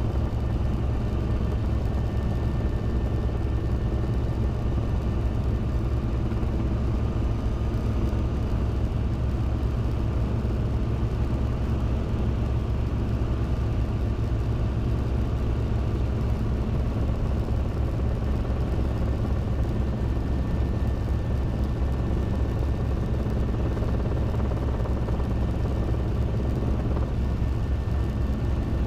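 Robinson R22 helicopter in flight: the steady drone of its piston engine and rotors, low and unchanging, with a fast even pulsing.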